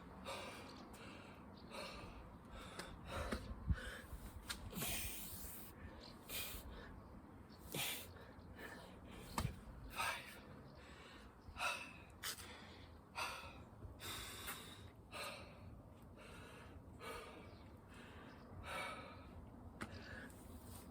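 A person breathing hard and gasping, roughly one loud breath every second, irregularly spaced: out of breath from hard exercise.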